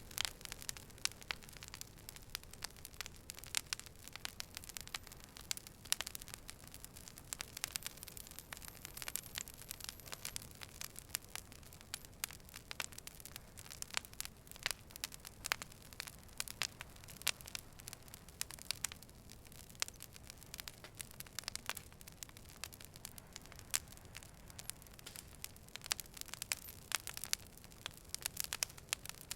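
Fire burning and crackling: frequent irregular sharp pops and snaps over a low steady hiss.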